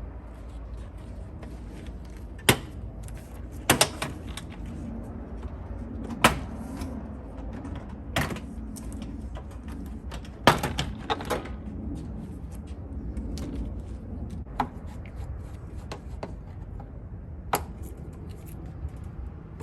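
Irregular sharp clicks and knocks, scattered a few seconds apart with a quick cluster in the middle, over a steady low rumble.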